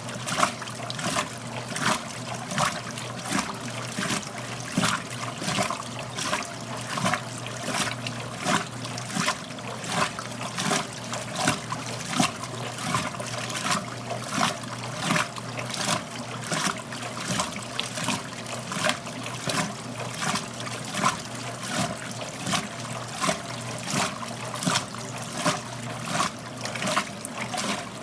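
1969 Westinghouse LAJ 535A3 washing machine working a load of wet clothes: water and laundry splash in the tub at a regular beat, about three strokes every two seconds, over the steady hum of its motor.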